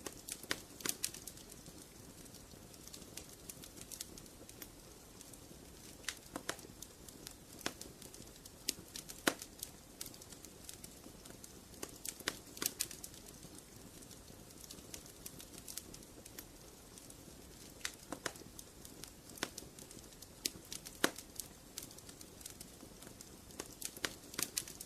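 Wood fire burning in a fireplace, crackling: irregular sharp pops and snaps, some in quick clusters, over a low steady hiss of the flames.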